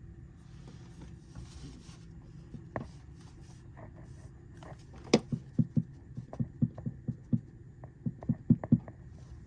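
A bird pecking at the house with its beak: one sharp tap, then a quick irregular run of about fifteen taps starting about halfway through.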